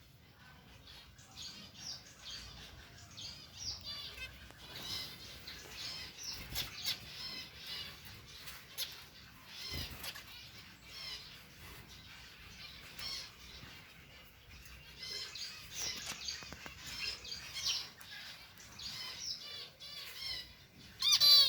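Zebra finches chirping: rapid bursts of short, repeated calls, loudest near the end, with wing flutters and occasional sharp clicks among them.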